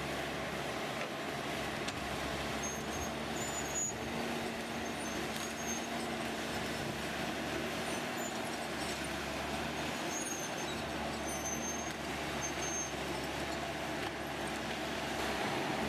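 Steady running of a heavy engine or machine, with a low hum and a few brief high squeaks over it.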